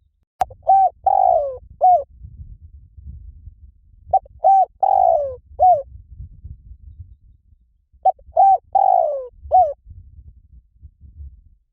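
Spotted dove calling: three cooing phrases about four seconds apart, each a few short coos followed by a longer coo that falls in pitch. A faint low rumble lies underneath.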